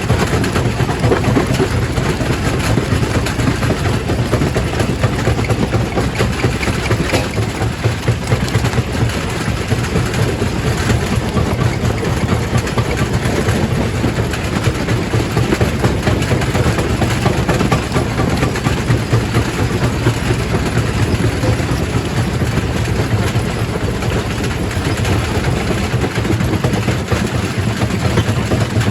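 Quarry primary rock crusher running: a loud, steady heavy-machine drone with a rough grinding noise of stone being crushed through it.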